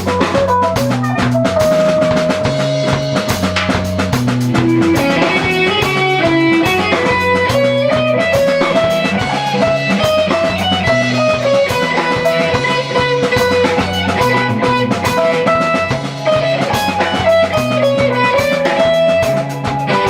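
Rock band playing live: drum kit and bass keep a steady pattern under an electric guitar line of long held notes that bend slightly in pitch.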